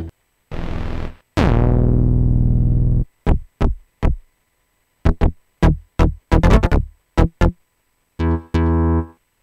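Hardware synthesizer sounds played in short separate takes with silent gaps between them: a hissy noise swell, a held note whose bright top sweeps downward, then short plucked notes, a quick run of staccato stabs, and two held notes near the end.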